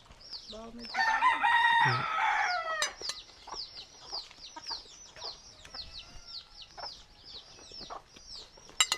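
A rooster crows once, a long call starting about half a second in. Over it, a bird repeats short, high, falling chirps several times a second.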